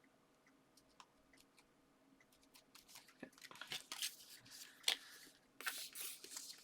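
Scissors cutting paper and card: after a quiet start, a quick run of crisp snips and paper rustles in the second half, one click sharper than the rest.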